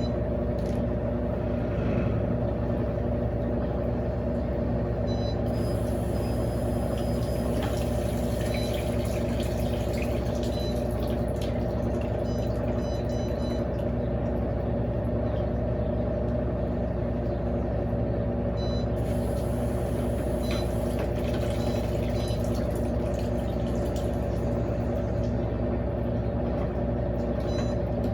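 Electrolux LAC16 top-loading washing machine running steadily on its replacement 1/4 hp WEG motor, most likely in the final spin near the end of its cycle, with a constant motor hum.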